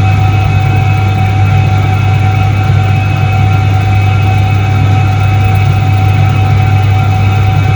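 A 1978 Soviet ISET-3 washing machine running: a loud, steady motor hum with a deep drone and a few steady higher whining tones, unchanging throughout.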